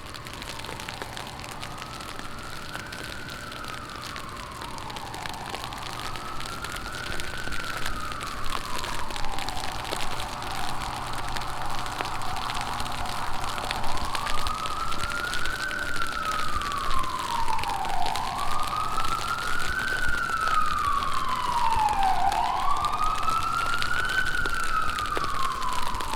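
Emergency-vehicle siren wailing, sweeping slowly up and down about once every four seconds and growing louder, over the steady hiss of heavy rain. A fainter second siren tone overlaps near the end.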